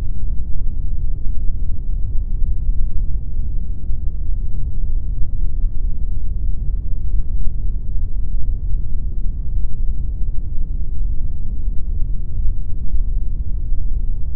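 Steady synthetic pink noise: an even, unbroken rushing sound, heavy in the low end with little treble.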